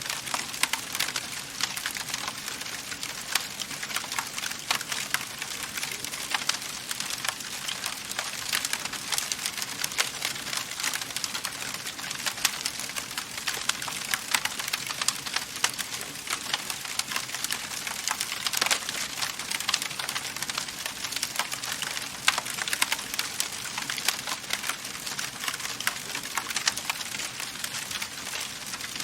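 Wood fire crackling in a fireplace: a dense, continuous run of sharp pops and snaps over a steady hiss, with a few louder pops standing out.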